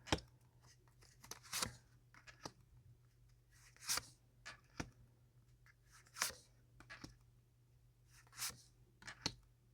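Tarot cards being handled and laid out on a table: a scattering of soft rustles, slides and light taps, about nine short sounds spread irregularly.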